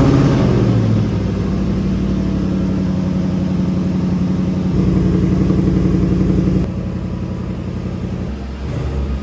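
Land Rover Defender V8's 5.0-litre supercharged V8 heard at the exhaust tip, flaring loudly as it fires up and then settling into a steady high idle. About five seconds in, the idle note rises a little for a couple of seconds, then drops back.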